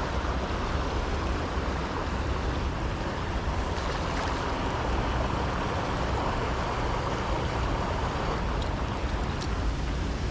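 Steady rush of flowing river water, with wind rumbling low on the microphone.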